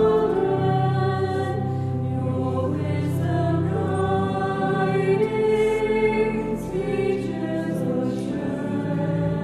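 Choir and congregation singing a hymn in sustained, held notes, with steady low notes beneath the voices.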